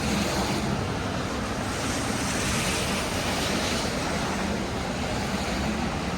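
Steady hiss of rain and traffic on a wet city street, swelling for a couple of seconds in the middle.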